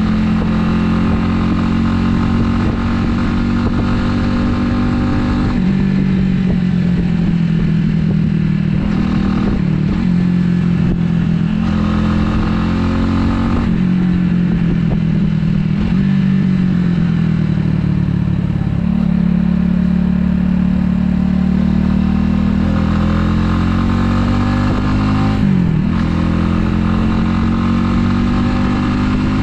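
Italika 250Z motorcycle engine running while riding. Its note rises and falls with the throttle, drops in steps as revs come down, and climbs again near the end, with a brief break in the note about four seconds before the end, as at a gear change.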